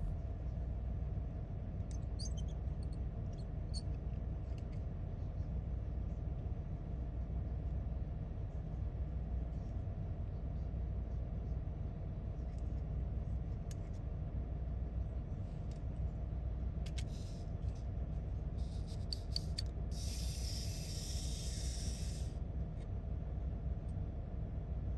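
Faint clicks of small plastic toy parts being handled and fitted together, with a brief rustle-like hiss near the end, over a steady low hum.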